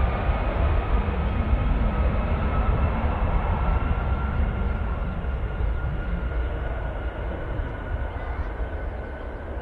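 Jet airliner engines running: a low rumble under a steady whine that slowly rises in pitch, the whole sound gradually fading toward the end.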